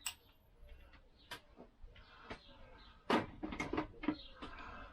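Scattered knocks and clunks of a Lambretta scooter engine being handled and turned around on a workbench, a few single knocks at first, then a busier run of louder clunks about three seconds in.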